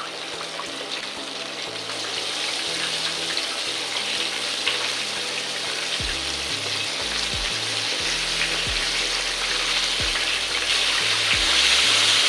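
Flour-coated chicken breast pieces deep-frying in hot oil: a steady sizzling hiss that grows louder near the end.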